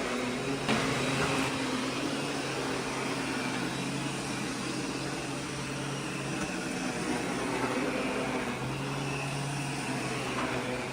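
Miele S8 Cat and Dog canister vacuum running steadily with its power nozzle, a steady hum and rush of air. A brief knock sounds about a second in.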